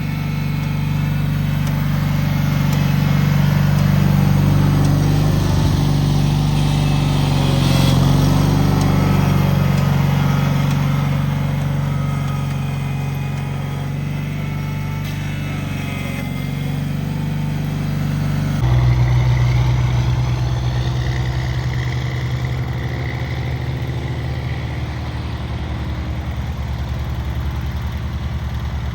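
Cub Cadet 782 garden tractor's engine running steadily. About two-thirds of the way through, its note changes abruptly to a lower, steadier pitch.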